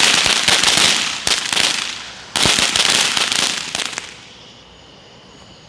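Consumer firework going off: a continuous crackling hiss packed with sharp pops. It dips about two seconds in, surges again, then dies out about four seconds in.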